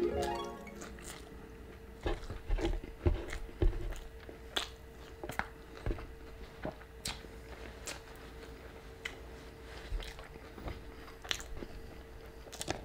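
Close-up chewing of crunchy food, with irregular sharp crunches and mouth clicks.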